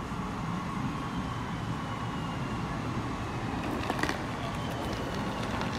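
Skåne X61 electric multiple unit pulling into an underground platform: a steady low rumble with a faint electric whine falling in pitch as it slows, and a few clicks about four seconds in.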